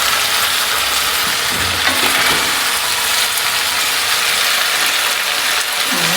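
Chicken, onion and potato frying in mustard oil in a kadai: a steady sizzle with fine crackling.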